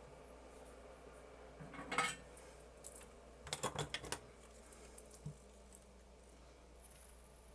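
Small metallic clicks and clinks of tools handled at a workbench during soldering: one sharp clink about two seconds in, then a quick cluster of clicks a second and a half later and a few faint ticks, over a steady low hum.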